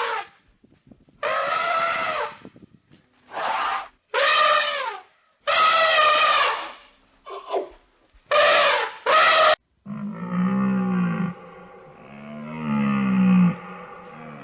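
Animal calls: a run of about seven short, loud, high-pitched calls, then two longer, lower calls from about ten seconds in.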